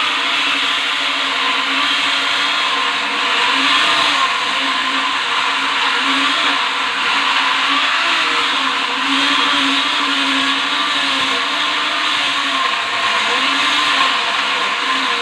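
Battery-powered electric mini chainsaw running continuously: a high motor whine over chain hiss, its pitch wavering slightly.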